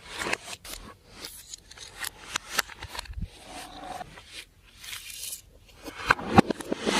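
Slime being handled and mixed, with a run of sticky clicks, crackles and squelches that come thicker and louder near the end.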